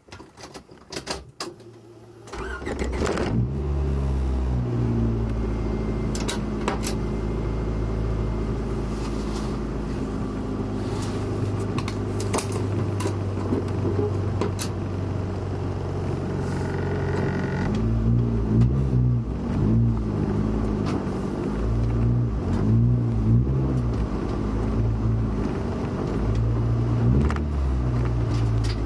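Honda B18C6 1.8-litre DOHC VTEC four-cylinder heard from inside the Civic's cabin: a few clicks, then it cranks and catches about two seconds in and idles steadily. From about halfway the revs rise and fall again and again as the car pulls away.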